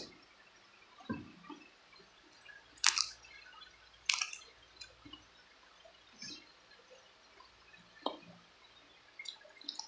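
Mouth sounds of eating spicy chicken feet: several sharp, wet smacks and sucks at irregular intervals, the loudest about three and four seconds in, with quiet chewing between.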